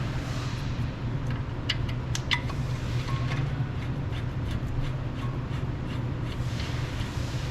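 Light metallic clicks and taps as brake pad hardware clips are fitted onto a caliper bracket, over a steady low hum.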